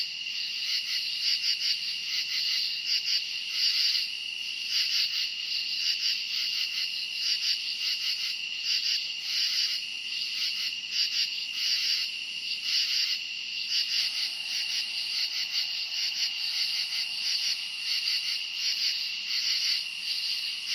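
A chorus of crickets chirping: a steady, high, pulsing trill.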